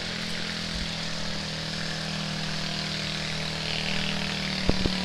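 An engine running steadily at a constant speed, an even hum, with two short knocks near the end.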